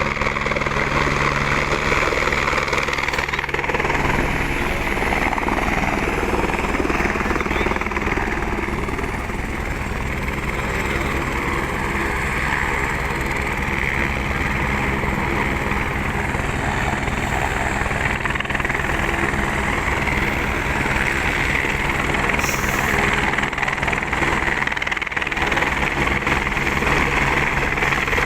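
Helicopter running, its rotor beating out a rapid, steady chop over the turbine's whine, loud and unbroken.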